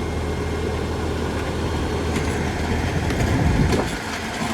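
LS tractor's diesel engine running steadily, with rattling and clanking from the grading implement that grows in the second half.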